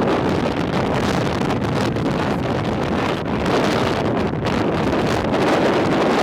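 Strong storm wind blowing across the camera's microphone: a loud, unbroken rushing buffet that rises and falls in strength.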